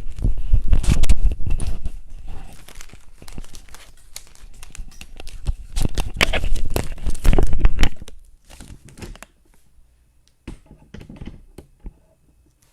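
Rustling and handling noise with many small knocks and clicks, dense and loud for about the first eight seconds, then thinning to a few faint clicks.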